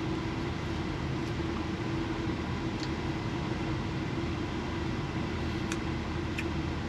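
A steady low hum with an even hiss over it, like a small fan or motor running, with a few faint ticks.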